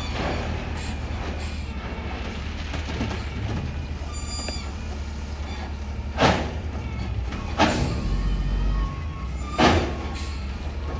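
Heavy machinery running steadily with a low rumble, broken by three loud bangs in the second half.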